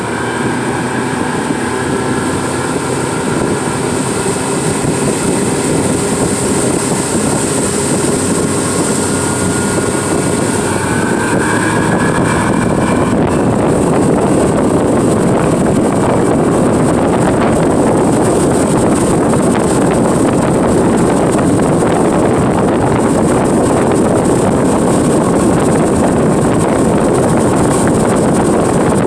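Tour boat's engine running steadily, then revving up about eleven seconds in and holding at speed with a louder rush of engine and wind noise.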